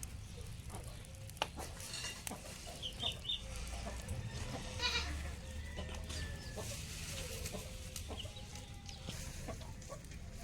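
Farmyard animals calling: chickens clucking and a goat bleating, a few short calls scattered through, over a steady low rumble.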